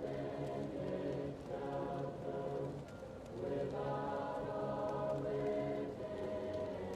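Choir singing slow, held notes, muffled as if from another room, with faint crackling from a fireplace throughout.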